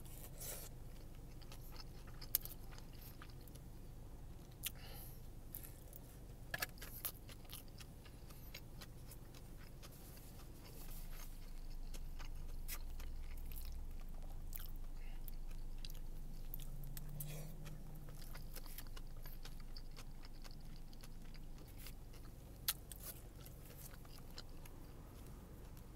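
Someone chewing a mouthful of kalua pork and rice, with scattered sharp clicks and a few louder ticks of eating, over a low steady hum.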